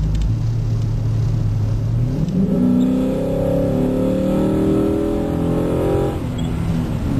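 2008 Dodge Charger R/T's 5.7L Hemi V8 through a Zoomers exhaust, heard from inside the cabin. A low drone at first, then about two seconds in it accelerates hard, the exhaust note rising in pitch for about four seconds before dropping back suddenly to a low drone.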